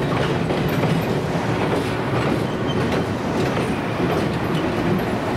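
Passenger train rolling over a steel girder bridge: the wheels of a coach rumble and clatter across the deck, then an EMD GP9 diesel locomotive passes overhead. The sound is a steady, even rumble heavy in the low end.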